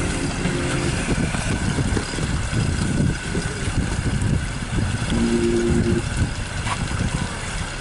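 Pontoon boat under way, its outboard motor running steadily under an uneven low rumble.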